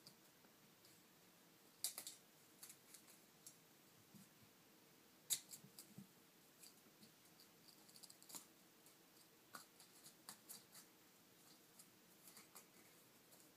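Faint, irregular small clicks and ticks, with a couple of sharper ones about two and five seconds in.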